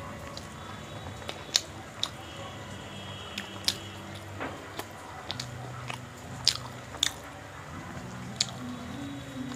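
Close-up mouth sounds of someone chewing chole bhature, the soft fried bread and spiced chickpeas, with irregular sharp wet smacks and clicks.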